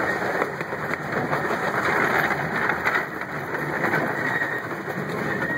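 Open passenger cars of a miniature steam train rolling along the track, heard from on board: a steady rattle and rumble of wheels on rail with scattered light clicks. A thin high tone comes in near the end.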